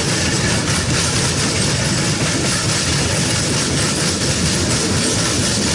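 Freight train cars, covered hoppers then tank cars, rolling past close by: a steady, loud noise of steel wheels running on the rails.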